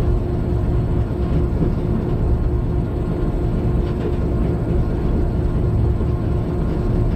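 Inside a freight locomotive's cab while running: a steady low rumble from the engine and wheels on the track, with a constant hum over it.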